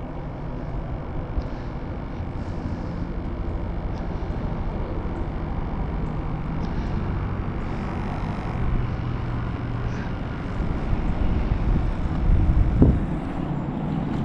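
Boat motor running steadily with a low drone, its pitch shifting a little now and then, and a short low thump near the end.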